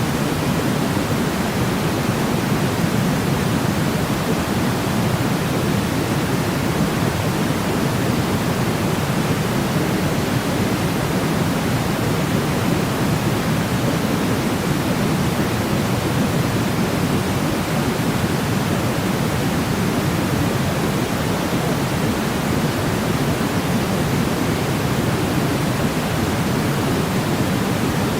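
Steady white noise for sleep, a constant, even hiss weighted toward the lower frequencies like pink noise, with no change in level.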